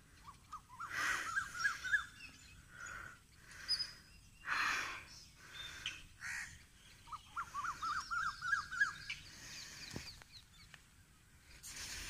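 A bird calling in two runs of quick repeated chirping notes, one about a second in and a longer one near the end, with several brief bursts of hiss in between.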